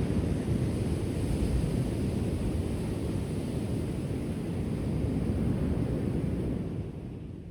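Ocean surf rolling onto the shore as a steady low rumble and wash, with wind buffeting the microphone. The wash eases off about seven seconds in.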